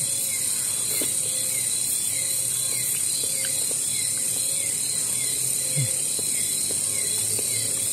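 Night-time rainforest insect chorus: a steady high-pitched buzz with a short falling chirp repeating about twice a second over it.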